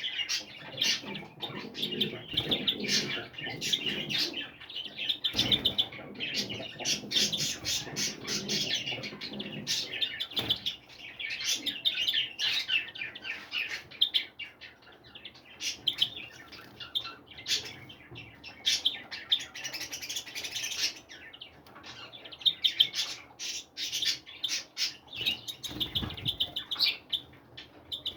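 A flock of small birds chirping and twittering together without a break, with short clicks and wing flaps among them.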